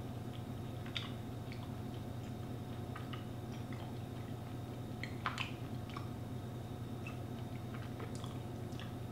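A person chewing a mouthful of soft fermented beef fat, with scattered short mouth clicks and smacks, the loudest a little past five seconds in. A steady low hum runs underneath.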